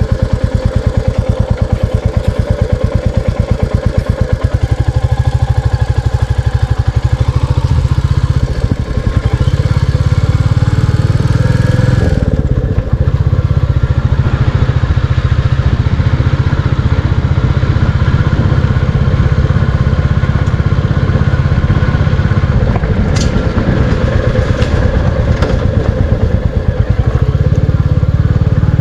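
Royal Enfield Classic 350's single-cylinder engine running as the motorcycle is ridden, with a steady thump of separate firing strokes at low speed that quickens and evens out a few seconds in and slows again near the end.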